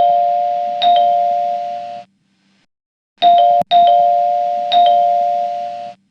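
An electronic two-tone chime, a pair of steady bell-like tones sounding together and slowly fading after each strike. It strikes twice, goes silent for about a second, then strikes three more times, the first of these cut off short.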